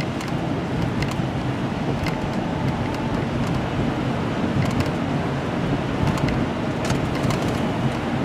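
Car driving on a wet, slushy road: steady engine hum and tyre noise, with a few scattered small clicks.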